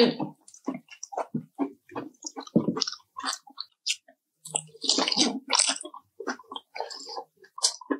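Close-miked eating of fried chicken: chewing and wet mouth smacking, a quick, irregular run of short squishy sounds.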